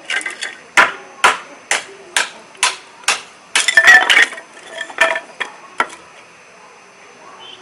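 Batoning hinoki kindling: a 3.2 mm carbon-steel knife blade struck repeatedly to split the softwood, giving sharp knocks about two a second, then a denser run of cracks about halfway through as the wood splits, then a few more knocks.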